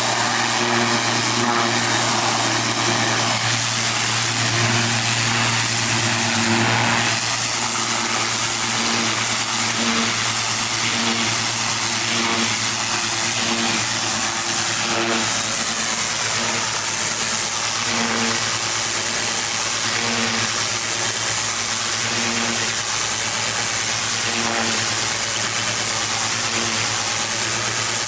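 Gas-engine pressure washer running steadily under load, with the steady hiss of the high-pressure spray over its engine hum.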